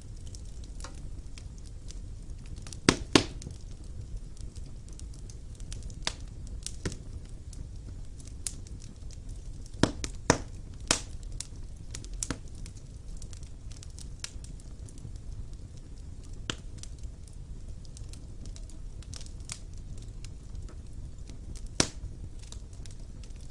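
Wood fire burning in a stone fireplace: a low steady rumble of flames with scattered sharp crackles and pops, the loudest in quick pairs about three, ten and twenty-two seconds in.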